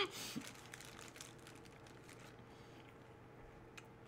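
Faint crunching of a mouthful of baby carrots being chewed, mostly in the first two seconds, with a single click near the end.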